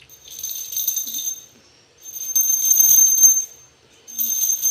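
Small brass puja hand bell (ghanti) being shaken in three bursts of quick ringing with short pauses between them.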